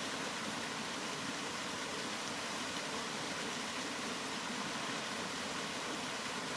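Steady, unbroken rain noise: an even hiss with no separate drops or changes in level.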